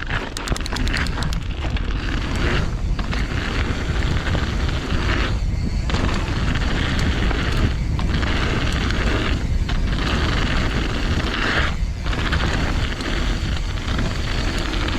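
Wind buffeting a riding mountain bike's camera microphone, with tyres rumbling over a snowy dirt jump trail. A quick run of even ticks in the first second or so, and the rushing thins briefly about five times.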